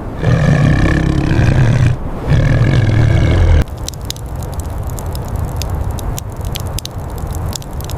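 A large wild animal growls twice, two long, low, rough growls over the first three and a half seconds. Then a steady crackling with a soft hiss.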